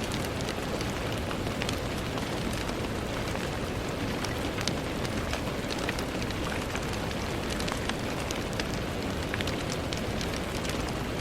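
Steady rain on a window, a constant hiss with many small drop taps scattered through it.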